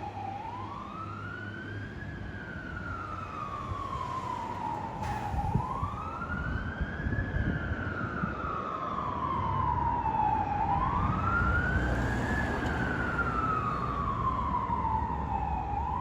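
Fire engine siren wailing in slow cycles, each rising quickly and then falling slowly, about every five seconds, over a low vehicle rumble. It grows louder about ten seconds in.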